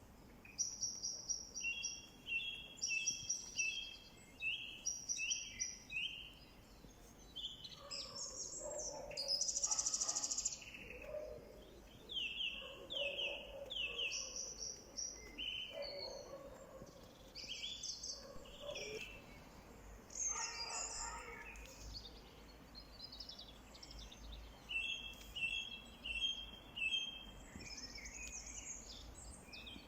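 Several songbirds singing and chirping, with short notes repeated in quick series and overlapping calls, and a louder trill about ten seconds in.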